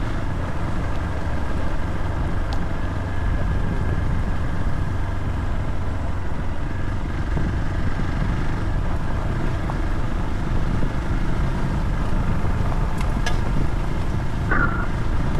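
Motorcycle running at a steady pace on the move, heard as a dense, even low rumble.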